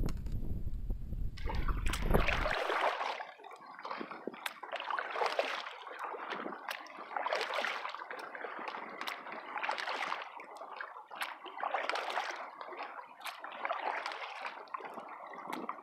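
Kayak paddle strokes splashing and dripping in the water in an even rhythm, about one stroke every second to second and a half. Low wind rumble on the microphone opens the sound and cuts off about two and a half seconds in.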